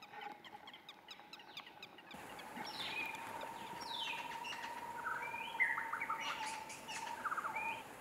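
Wild birds calling in dry forest: faint chirps at first, then short, clear, downward-sliding whistled calls that repeat every second or so, over a faint steady tone.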